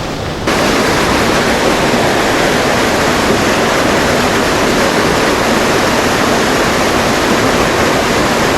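Rushing creek water: a steady hiss of fast-flowing current, jumping louder about half a second in and then holding steady.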